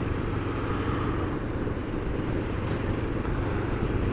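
Motorcycle engine running steadily at cruising speed under an even rush of wind and road noise.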